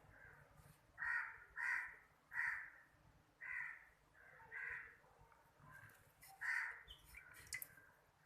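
A series of six loud bird calls, each about half a second long and unevenly spaced, with a few short faint high chirps near the end.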